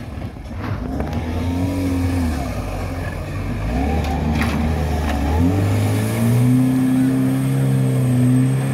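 Off-road vehicle engine running under load. About five and a half seconds in the revs step up and hold high and steady.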